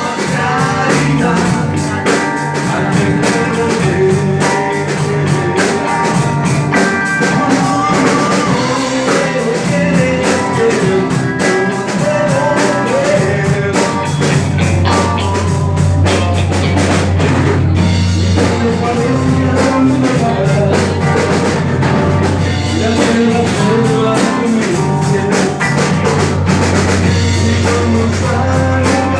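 Live rhythm-and-blues band playing: drum kit keeping a steady beat, electric guitar and harmonica.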